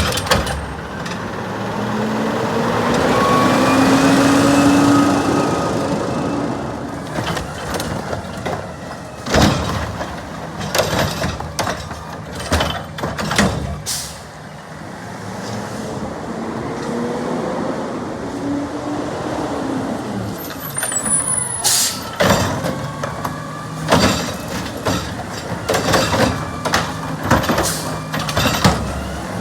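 Garbage truck working at the curb: its diesel engine revs up, then a run of bangs and clatter, and a sharp air-brake hiss about three quarters of the way through, with the engine running on.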